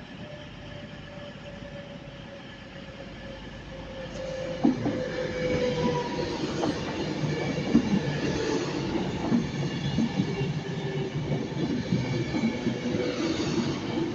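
Class 390 Pendolino electric train arriving and slowing into the platform. A steady whine slowly drops in pitch, then the wheel-and-rail rumble and clatter grow louder from about five seconds in.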